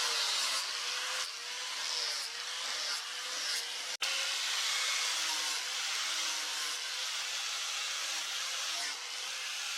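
Electric power tool running steadily with a hissing grinding noise, its motor note wavering slightly as it is pressed into the work. The sound breaks off for an instant about four seconds in and carries straight on.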